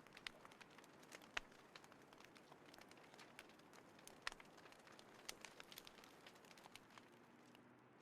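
Small wood fire crackling quietly, with irregular sharp pops and snaps, two of them louder, about a second and a half in and a little past four seconds.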